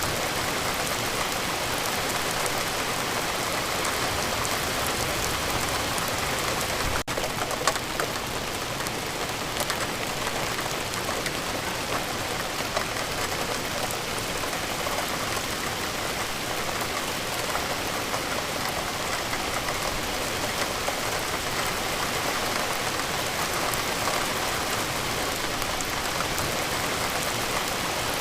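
Steady rain falling on a surface, a continuous hiss dotted with the ticks of individual drops. There is a brief dropout about seven seconds in.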